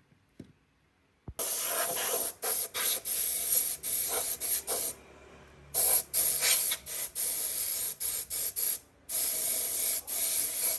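Compressed air hissing from a trigger-operated hand nozzle in many short bursts with brief gaps between them, starting about a second in.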